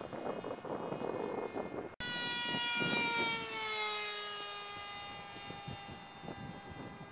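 Scratch-built twin-boom pusher RC foam airplane's motor and propeller whining, with wind buffeting the microphone at first. After an abrupt break about two seconds in, the whine comes back louder, then slides down in pitch and fades.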